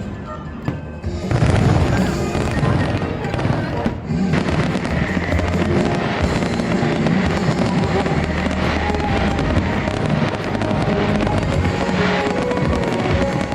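Fireworks bursting and crackling over show music played on loudspeakers. The sound drops briefly near the start, then comes back louder about a second and a half in.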